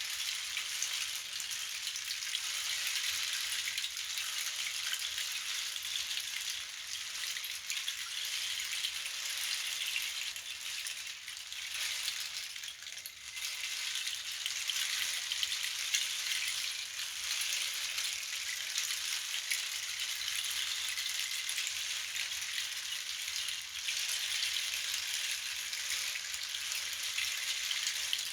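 Bead- or seed-filled hand percussion moved continuously, giving a steady rain-like hiss that eases for a moment about halfway through and then swells again.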